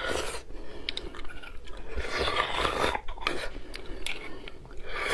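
Close-miked biting and chewing of meat eaten off a large marrow bone: wet mouth sounds and rasping noises with a few sharp clicks.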